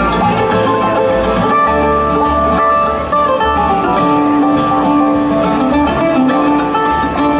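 Bluegrass band playing an instrumental break, banjo to the fore over guitar and steady bass notes.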